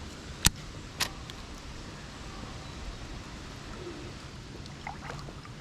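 Two sharp clicks about half a second apart near the start, the first much louder, then a steady faint background hiss.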